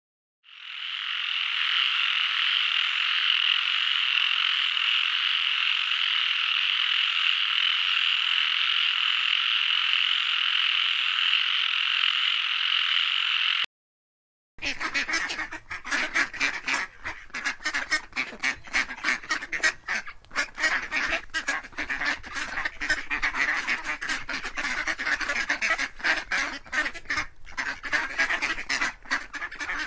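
A steady, dense chorus of frogs calling for about thirteen seconds, which stops abruptly. After a second of silence, a flock of mallard ducks quacks busily, many short calls overlapping.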